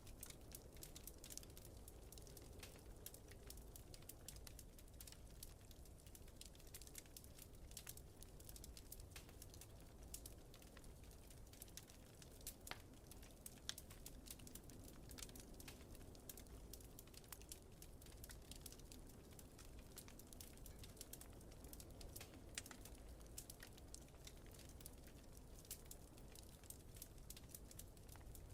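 Wood fire crackling quietly in a fireplace: a steady scatter of small, irregular sharp pops over a soft low rumble.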